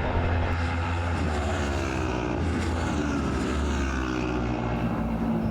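Racing motorcycle engine running hard, its pitch falling steadily over a couple of seconds as it passes or slows, over a constant low engine drone.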